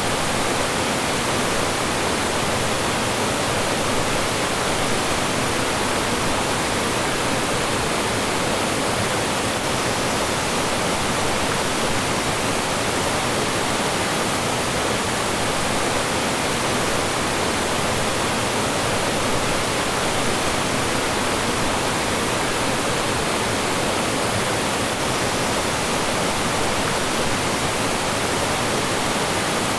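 Mountain stream rushing and falling over rocks: a steady, dense rush of water with no breaks.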